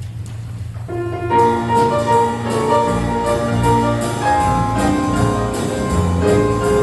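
A low steady hum, then about a second in an instrumental intro starts: piano and band playing a jazz-styled Christmas arrangement over a steady beat.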